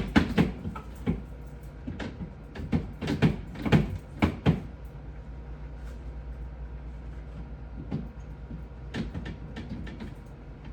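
Knocks and clatter of hard objects being handled, bumped and set down, several a second for the first four and a half seconds. A second short run of knocks comes about nine seconds in.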